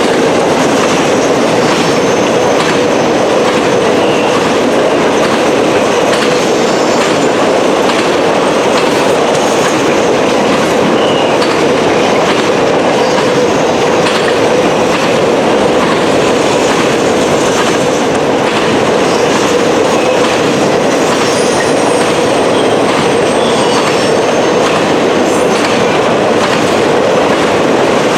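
Freight train cars rolling past at close range: a steady, loud rumble of wheels on rail, with a faint high wheel squeal at times.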